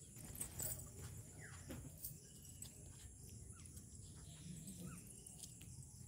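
Faint, scattered bird calls: a few short, falling chirps, with a few soft taps.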